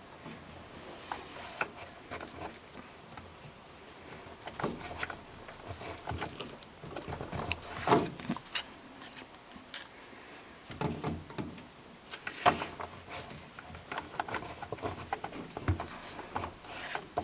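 Scattered clicks, knocks and rubbing of hands and a tool working a rubber drain hose further onto its fitting on a front-load washing machine, with a few sharper knocks in the middle and near the end.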